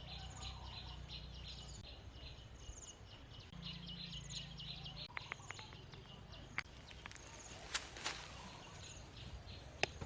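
Rainforest ambience: high, rapidly pulsing animal calls repeating over and over, with shorter high chirps about once a second. A few sharp cracks and rustles come about two-thirds of the way through.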